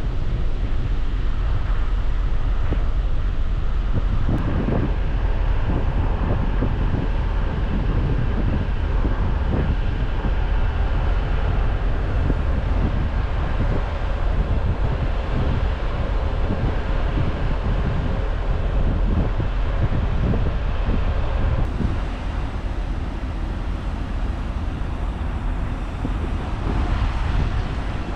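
Wind rushing over the microphone on the deck of a ferry at sea, over a steady low rumble. The level drops a little about three quarters of the way through.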